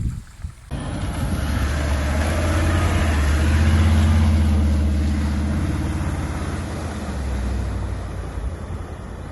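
Off-road 4x4's engine running as it drives by close, swelling to its loudest about four seconds in and then slowly fading.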